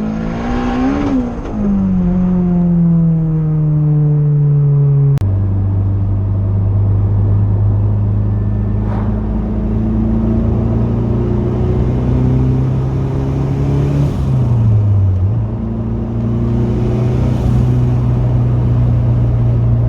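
Turbocharged Honda K20 inline-four engine in a Toyota MR2 running under way, its revs at moderate engine speed rather than full throttle. The revs sink slowly, drop abruptly with a click about five seconds in, then climb slowly and steadily. They dip briefly around fifteen seconds and hold steady again.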